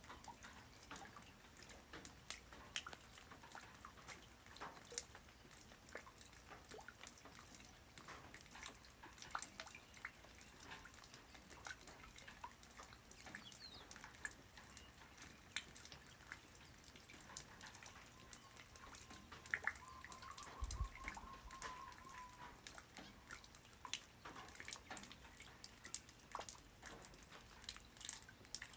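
Light rain falling on the ground, heard as a faint, irregular patter of scattered drop ticks over a soft hiss. About two-thirds of the way through, a faint held tone and a brief low thump sound under the patter.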